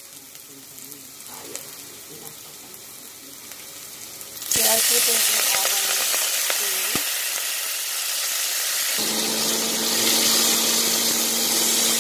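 Olive oil with herbs and ginger-garlic paste sizzling softly in a stainless steel pot; about four and a half seconds in, chopped kale goes into the hot oil and the sizzle jumps suddenly to a loud, steady hiss as it is stirred. A steady low hum comes in about nine seconds in.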